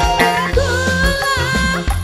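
A live Indonesian dangdut band playing a song: a singer's ornamented, wavering vocal line over a steady drum and bass beat.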